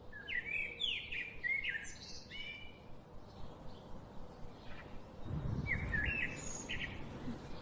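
Birds chirping in short, quick gliding calls: a run of them in the first two seconds or so, and another burst a little after five seconds in. A low rumble comes in under the second burst.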